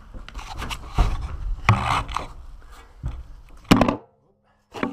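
Irregular scraping and clattering of hard objects being handled, with several sharp knocks. The loudest knock comes near the end, and then the sound cuts out briefly.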